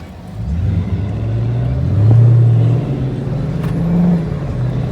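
Car engine accelerating as the car pulls off. The engine note picks up about half a second in and is loudest around two seconds in, then eases and rises again briefly near four seconds.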